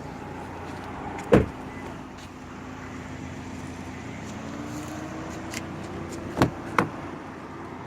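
Car interior sounds: a single loud thump about a second in, then an electric motor whirring with a slowly rising tone for a few seconds, and two sharp clicks close together near the end.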